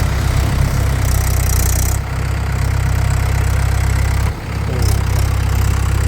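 Diesel tractor engine running with a steady low drone. It dips briefly a little past four seconds in, and a burst of hiss comes about a second in.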